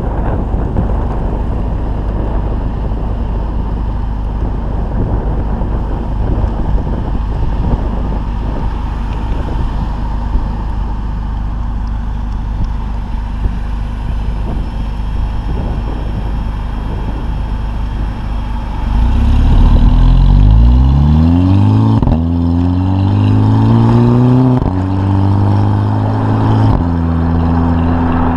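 Tuned VW Mk5 GTI's 2.0-litre turbocharged four-cylinder, breathing through a 3-inch catless downpipe and the stock catback exhaust, running with a steady low drone. About two-thirds of the way in it gets louder as the car accelerates hard: the pitch climbs, drops sharply at two quick DSG upshifts, then holds steady near the end.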